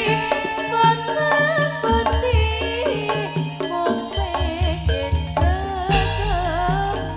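East Javanese jaranan music: a drum-and-gong ensemble with a wavering, ornamented melody line over steady low tones and regular beats.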